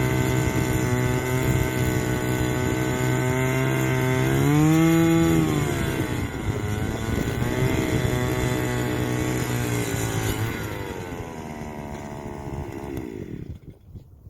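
Gas-powered ice auger engine running as it drills through lake ice, revving up briefly about four seconds in, then slowing and cutting off near the end.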